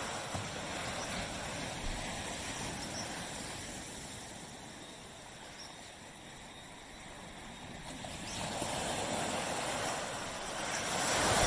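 Waves breaking on a beach and washing up the shore. One wash fades away over the first half, then a new wave breaks about eight seconds in and swells to its loudest near the end.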